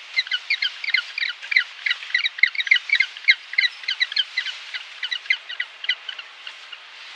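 An animal chirping in a long, rapid run of short, high-pitched notes, about five a second, over a steady hiss. The calls thin out and fade over the last couple of seconds.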